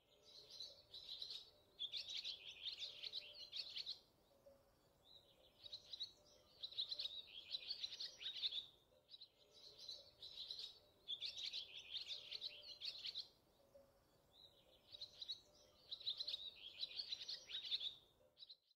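A bird singing in four bouts of rapid high chirping, each a few seconds long, with short pauses between.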